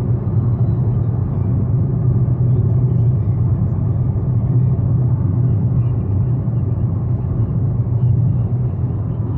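Motorcycle riding at a steady pace: a constant low engine drone mixed with rumble, with no change in pitch.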